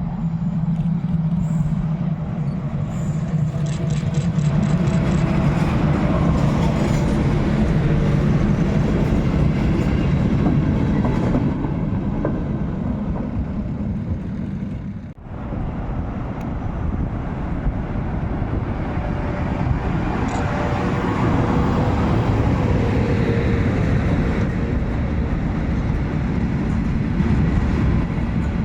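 A pair of FS E652 electric locomotives with a DIC 80 US car running along the track: a steady low drone from the locomotives over wheel and rail noise, with a short run of quick, even ticks about four seconds in. The sound cuts off abruptly about halfway through and resumes at once.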